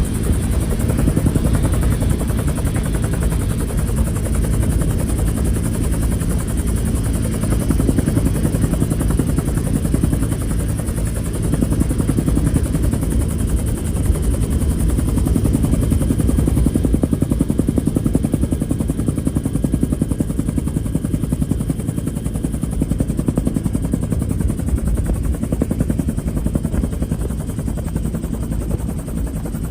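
Helicopter running steadily overhead, its rotor blades giving a fast, even chop under a low engine drone.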